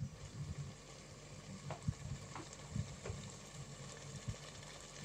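Potatoes frying in a spiced onion-tomato masala in a steel pot: a faint, steady sizzle with a few small pops.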